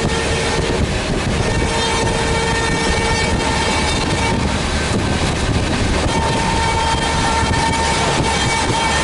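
Train running at speed on rail: a loud, steady rushing rumble of wheels on track with faint clicks over it. A held high tone sits on top, breaking off about midway and returning near the end.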